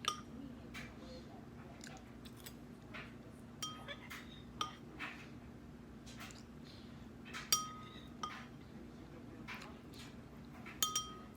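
Cutlery clinking against a dish, a dozen or so irregular clinks with a short ring, the loudest about seven and a half seconds in, over a low steady hum.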